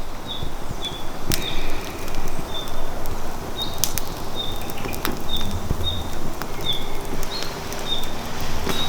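Wood fire in a fire pit crackling with sharp irregular pops over a low steady rumble. A short, high chirp repeats about twice a second in the background.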